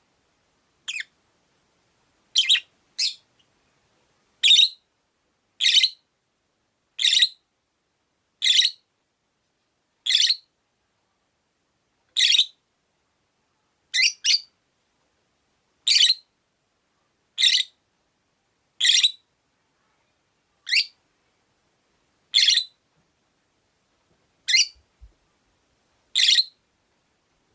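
Rosy-faced lovebird repeating short, high-pitched calls, one about every second and a half, a few of them in quick pairs.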